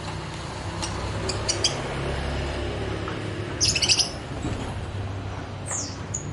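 Small songbirds chirping: scattered short high chirps, a burst of sharp chirps about four seconds in, and a quick falling note near the end, over a low steady hum.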